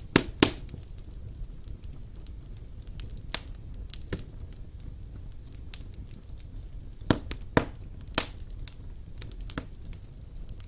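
Wood fire burning in a fireplace: a steady low rumble of flames with irregular sharp pops and crackles from the burning logs, the loudest two pops just after the start and another cluster about seven to eight seconds in.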